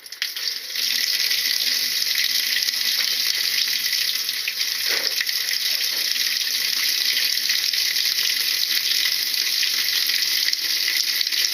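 Water running steadily into a washing machine tub, a continuous rush that builds up over the first second.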